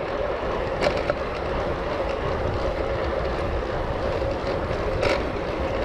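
Steady rumble of distant vehicle noise with a faint constant hum. A few light clicks stand out, one about a second in and one near the end.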